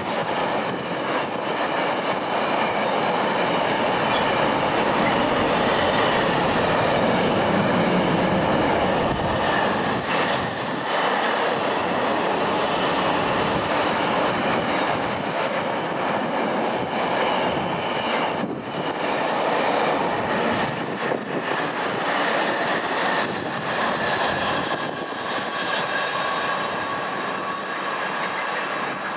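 A train running through on the rails: a loud, continuous rolling noise with high, steady ringing tones over it, fading away over the last few seconds.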